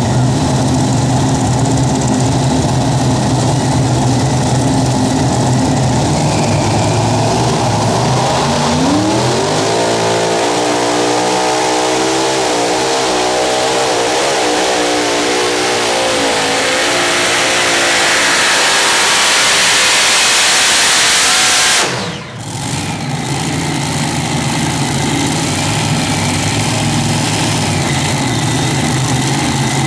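Super Modified pulling tractor engines running steadily, then revving up about a third of the way in and running hard with a wavering, climbing pitch as under load. The sound drops off suddenly near the three-quarter mark, and a steady engine note follows.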